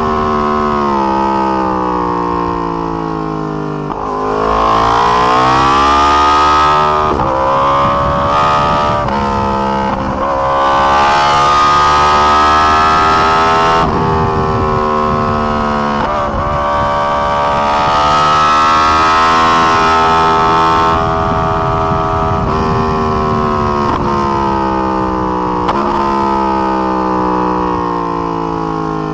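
2020 Yamaha R1's crossplane inline-four at racing pace on track: the engine note falls under braking, then climbs hard with short breaks at each upshift, over and over through the corners. Wind rushes at speed.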